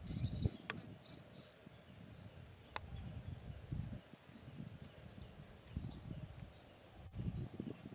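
Low, uneven rustling. From about halfway, an animal gives a run of short, high chirps, one to two a second.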